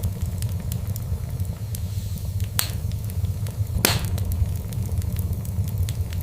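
Wood fire crackling, with frequent small snaps over a steady low rumble of burning. Two louder pops stand out, about two and a half and four seconds in, the second the loudest.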